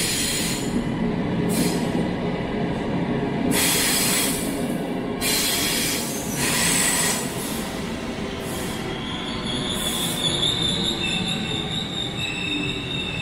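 SNCB classic electric multiple-unit train arriving along the platform: a steady rumble with repeated hissing surges as the carriages pass. About two-thirds of the way through, a steady high squeal sets in as the train slows.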